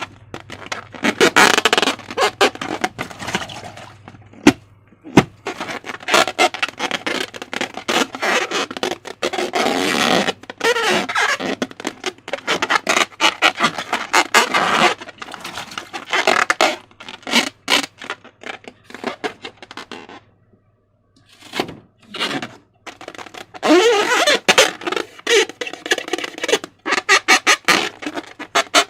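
Slime being squished and stretched by hand, with wet squelching, crackling and popping of small air pockets. It comes in bursts, with a single sharper pop about five seconds in and a short pause about twenty seconds in.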